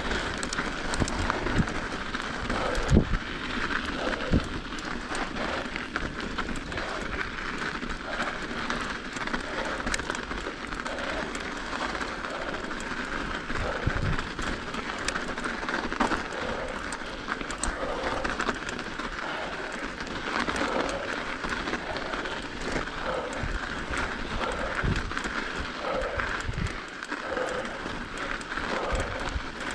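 Mountain bike tyres rolling over hard-packed snow and ice on a winter single track, a steady gritty rushing with scattered knocks and thumps from bumps in the trail.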